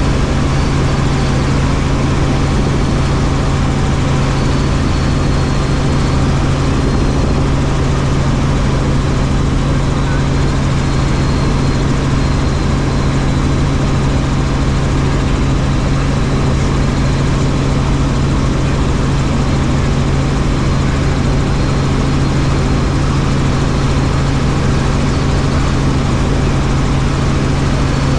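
Helicopter in flight: the steady, loud drone of its engine and rotor, with a strong low hum underneath.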